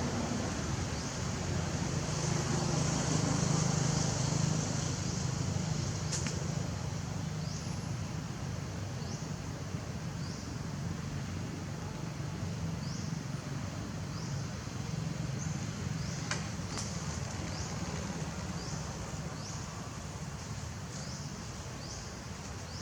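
Outdoor ambience: a steady low rumble under a high hiss, with a short rising high-pitched chirp repeated about once a second through the second half.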